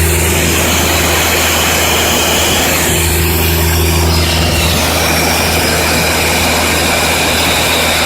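Cummins diesel engine of a Joy portable air compressor running steadily under load, throttled up with the air valve open, over a steady hiss of compressed air blowing off.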